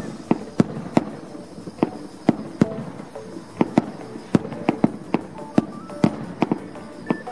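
Aerial firework shells bursting in quick succession: sharp bangs about three a second, unevenly spaced, with faint music underneath.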